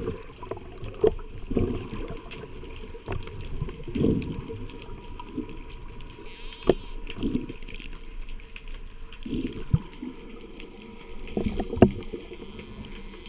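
Water sloshing and bubbling around a camera housing in the sea: irregular low rushes of water with scattered sharp clicks.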